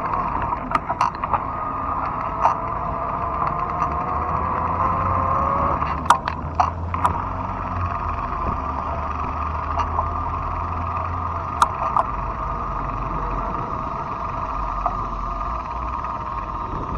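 Fat-tire electric bike riding along: a steady hum from the motor and tyres, with a tone that drifts slowly in pitch in the first six seconds and several sharp clicks or knocks scattered through.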